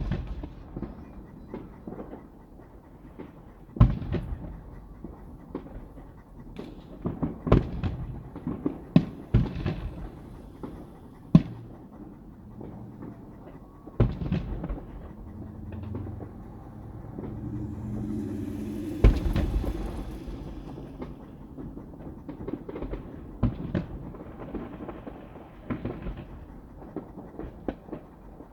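Fireworks show: aerial shells bursting as a string of irregular booms, some sharp and loud, with a noisy, hissing stretch a little past the middle.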